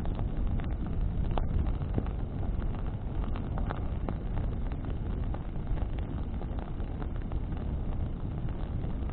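Bonfire burning in the wind: a steady low rush of flame and wind buffeting the microphone, with frequent sharp crackles from the burning branches.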